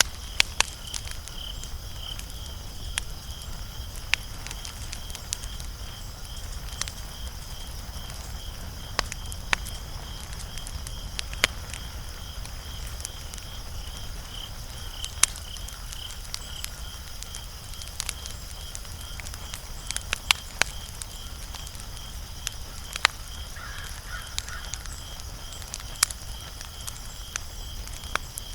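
Wood fire crackling, with sharp irregular pops every second or two over a low steady rumble. Behind it an insect chirps steadily in a fast pulsing rhythm.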